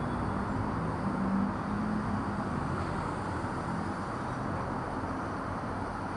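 Steady low background rumble, with a faint hum in the first couple of seconds.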